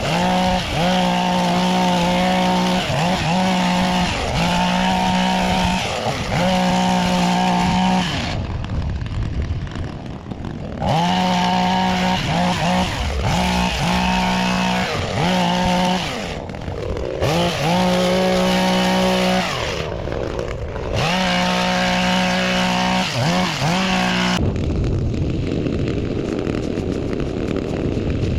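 Small petrol engine of a handheld garden power tool running at high revs in spurts. Its pitch dips and recovers again and again as it bites into the bushes, with a few short letups. About three-quarters of the way through it gives way to a steadier, rougher noise.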